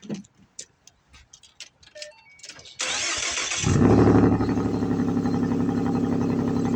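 Cold start of a Ford Mustang 3.7-litre V6 with short-tube headers, an H-pipe and a muffler delete. A few light clicks and a short beep come first; nearly three seconds in the starter cranks for under a second. The engine catches with a brief rev flare, then settles into a steady fast idle.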